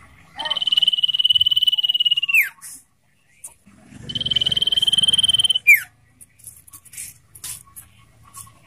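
Common iora calling: two long, high, steady whistled notes of about two seconds each, with a fast flutter through them. Each ends in a quick downward slur, and a few short chips follow.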